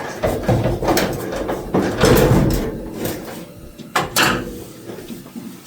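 Metal clunks and scraping as the steel hood of an old Chevy pickup is handled and shifted loose. There is a rough scrape about two seconds in and a sharp knock about four seconds in.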